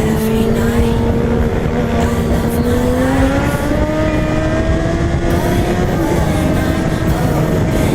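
Motorcycle engine running under way, its pitch climbing gradually as it accelerates, over a loud steady low rush.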